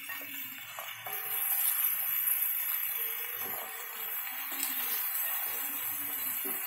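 Malabar spinach leaves and chopped vegetables sizzling steadily in hot oil in an aluminium wok, with the greens being stirred.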